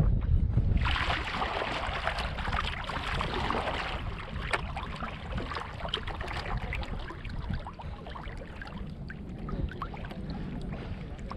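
Kayak paddle splashing through the water, with a strong burst of splash about a second in and then lighter drips and trickles off the blade. A low wind rumble sits under it on the microphone.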